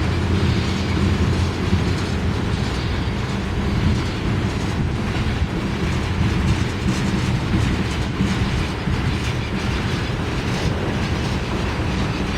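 Tank cars of a freight ethanol train rolling past, a steady rumble of steel wheels on rail with clickety-clack over the joints. A locomotive-like hum fades out in the first second.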